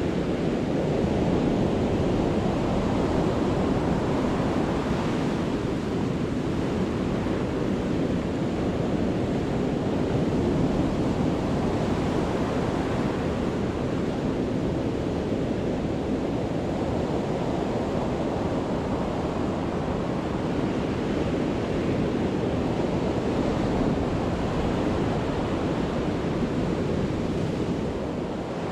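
Sea waves breaking and washing on a beach in a continuous deep rumbling surf that swells and eases slowly, with some wind on the microphone.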